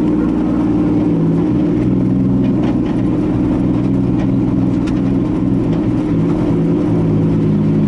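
Nissan 240SX's swapped 2JZ-GTE turbocharged straight-six running at steady low revs as the car rolls slowly in a circle under light throttle, the pitch shifting only slightly.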